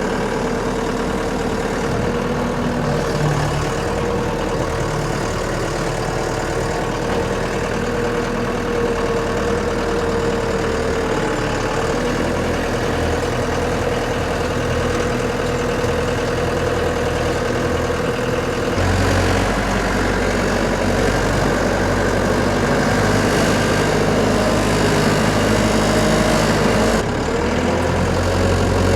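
A vehicle engine running steadily at low revs. Its note changes and the low rumble grows heavier about two-thirds of the way through, then shifts again near the end.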